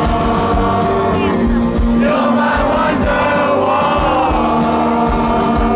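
Loud live band music with singing over a steady beat, and crowd voices mixed in.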